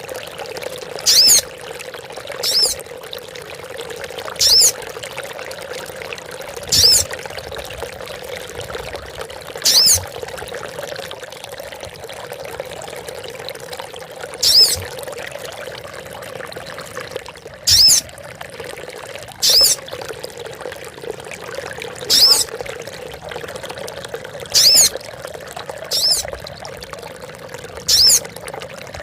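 Female sogon bird calling: a short, high-pitched call repeated about every two to three seconds, over a steady trickle of running water.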